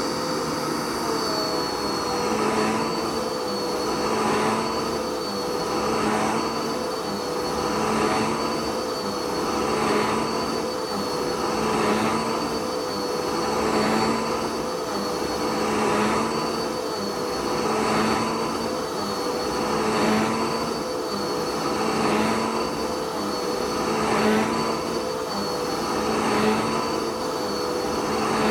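Dirt Devil vacuum cleaner running steadily with a high whine. Its sound swells and eases in a regular rhythm, about once every two seconds, as it is pushed back and forth in passes.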